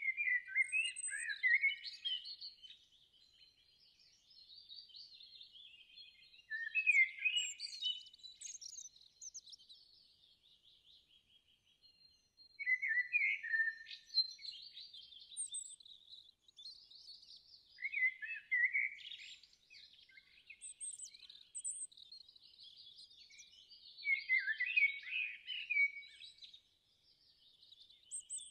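Birds singing and chirping, with louder bursts of song about every five to six seconds over fainter steady twittering.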